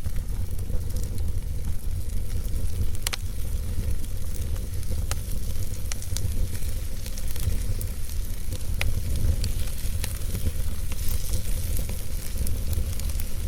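Wood logs burning in a fireplace: steady crackling over a low rumble of flames, with sharp pops about 3, 5 and 9 seconds in.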